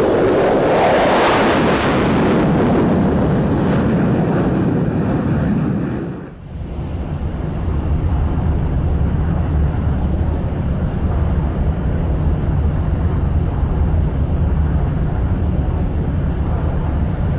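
F-16 fighter jet's engine running at high power for takeoff, a loud roar for about six seconds. It dips briefly, then goes on as a steadier, deeper rumble.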